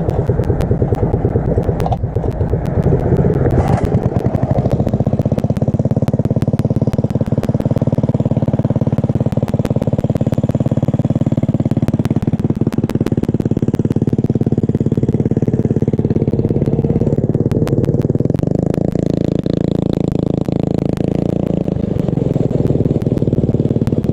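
Mini bike's small engine running steadily at a fairly constant speed, its pitch shifting slightly a few times, with a fast rattling clatter over it.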